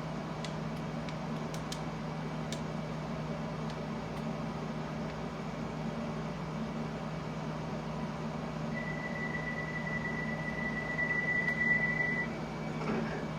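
London Underground train, a steady low hum with a few faint clicks, and a single high-pitched steady tone lasting about three and a half seconds near the end.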